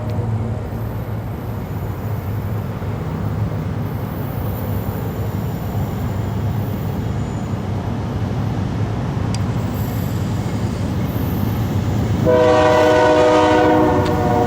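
A train running by with a steady low rumble, and a locomotive horn sounding one chord of several tones for about two seconds near the end.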